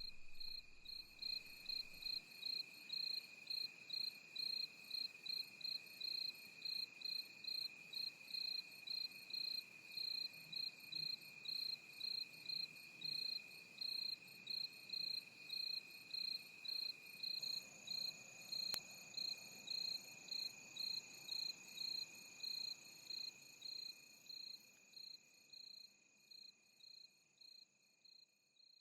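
Crickets chirping in an even pulse, about two chirps a second, over a steady high-pitched insect drone. A second high tone joins partway through, and everything fades out near the end.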